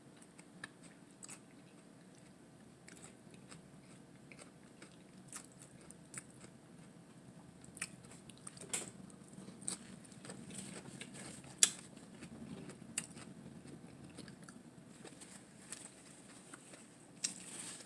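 Close-up chewing and biting of a lettuce wrap with a hamburger patty: soft crunches and wet mouth clicks, with a few louder crunches around the middle.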